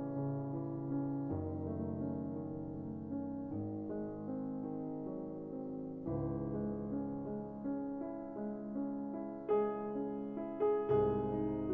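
Slow, soft piano music: sustained chords over a low bass note that changes every two to three seconds, with a few higher, brighter notes struck near the end.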